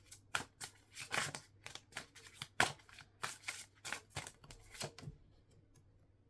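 Tarot cards being shuffled and handled by hand: an irregular run of quick papery flicks and slaps that stops about five seconds in.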